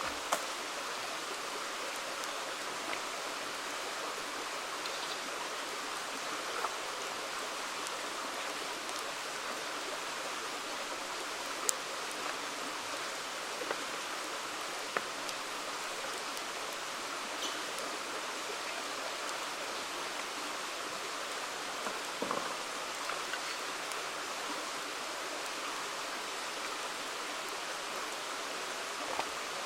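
A river flowing steadily, with a wood campfire crackling over it: scattered sharp pops, the loudest about 12 seconds in.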